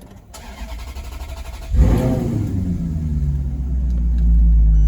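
Maserati Quattroporte Sport GT's V8 engine. About two seconds in the revs flare suddenly and loudly, and the engine then settles into a steady deep running note that grows slightly louder near the end.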